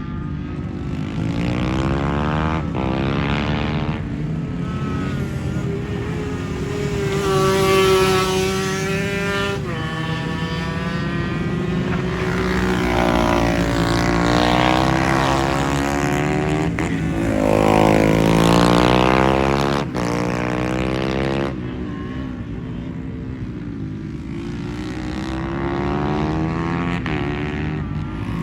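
Small racing motorcycles lapping a circuit: several engines buzzing at high revs, rising and falling in pitch as they accelerate and pass. The loudest passes come about 8 and 18 seconds in.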